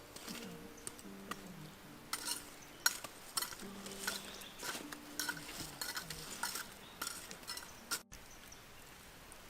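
Cooking utensils clinking and scraping in a series of sharp clicks over about six seconds, with a few soft held low tones underneath.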